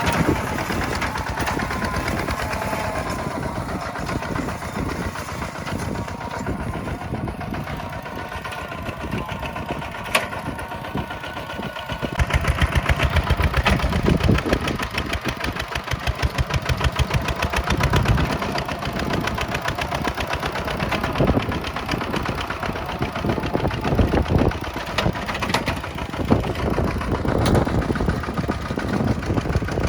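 Kubota tractor's diesel engine running with a fast, even knock of firing pulses, getting louder and heavier from about twelve seconds in as it works under load.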